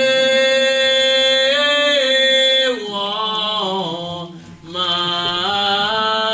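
Slow gospel song sung with long, drawn-out notes, the word "the" held steady for over two seconds before the melody moves on, with a short break for a breath about four and a half seconds in.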